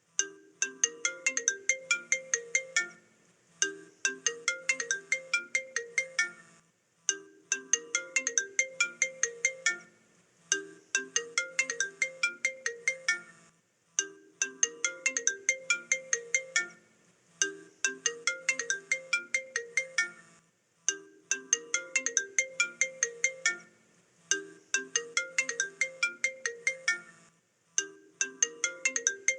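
iPhone ringtone playing on a loop: a short melodic phrase of quick notes over a low bass line, repeating about every three and a half seconds.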